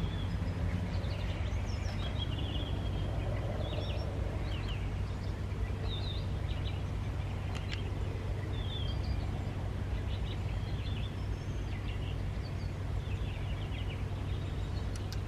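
Small birds chirping and warbling repeatedly over a steady low hum.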